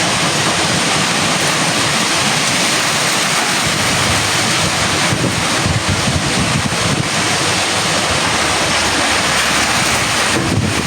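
Hurricane wind and heavy rain: a loud, steady rushing noise with no break.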